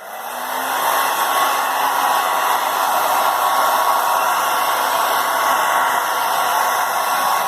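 Hair dryer switched on, building to full speed within about a second, then blowing steadily with a faint whine.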